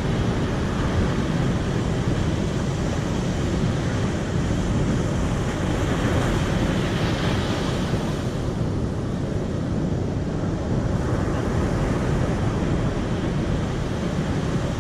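Steady rushing noise, even and unbroken, that swells slightly a little past the middle.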